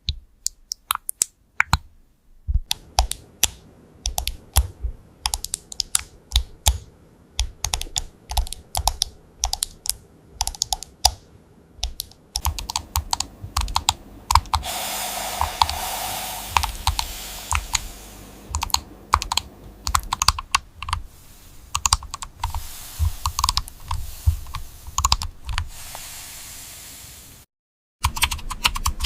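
Typing on a computer keyboard: quick, uneven runs of key clicks, several a second. A steady hiss sits under the typing through the middle part, and the sound cuts out for a moment near the end before the typing picks up again.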